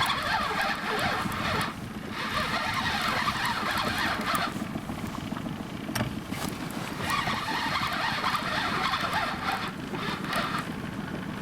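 Spinning reel being cranked in spurts while playing a heavy fish, with short pauses between bouts of winding, over wind and water chop.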